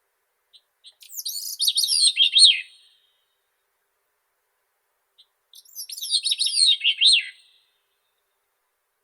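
Grey-cheeked thrush singing two song phrases a few seconds apart. Each opens with a soft short note, then runs for about two seconds of thin, high, quickly warbled notes that fall in pitch toward the end.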